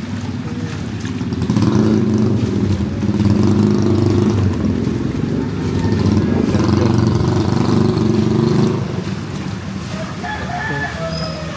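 A motor vehicle engine running close by, with a steady low hum that grows louder about a second and a half in and eases off after about nine seconds.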